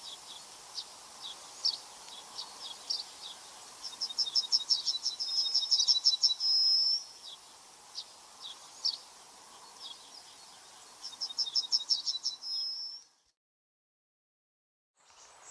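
A small songbird singing: quick phrases of rapid high chirps, each ending in a short held whistle, with scattered single chirps between them. The song cuts off to silence near the end.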